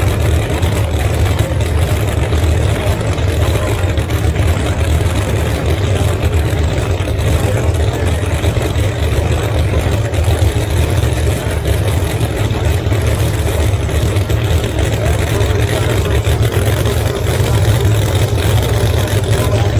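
Drag racing cars' engines running at idle: a steady low rumble with no revving.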